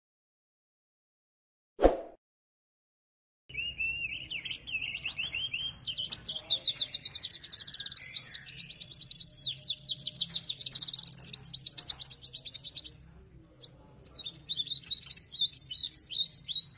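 A songbird, the white-rumped shama (murai batu), singing a long run of rapid, varied trills and whistles, pausing briefly and then singing again near the end. A single short knock comes about two seconds in, before the song starts.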